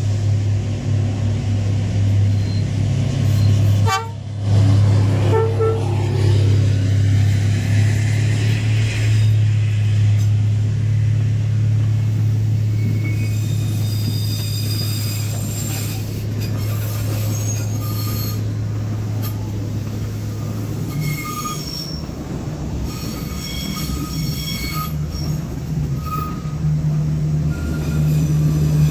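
Diesel train passing close by with a steady low engine drone. From about halfway, high wheel squeal comes and goes over the rumble.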